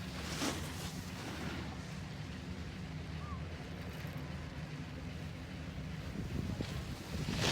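Steady low mechanical rumble with wind noise on the microphone, and a brief louder swish about half a second in.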